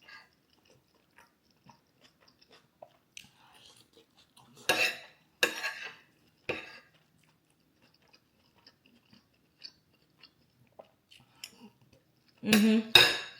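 A person chewing and biting food close to the microphone: crunchy mouthfuls and small wet clicks, with louder bites around five to six and a half seconds in and near the end.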